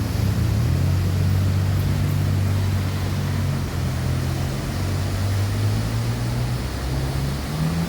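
Low, steady hum of a motor vehicle's engine on a city street, its pitch stepping up slightly near the end.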